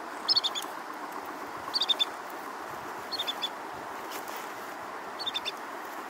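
Ibisbill calling: four short bursts of three or four quick, high piping notes, spaced about one to two seconds apart, over the steady rush of a river.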